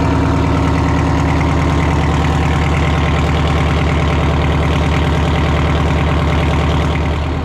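Detroit Diesel engine of a classic monster truck idling steadily, easing down slightly near the end.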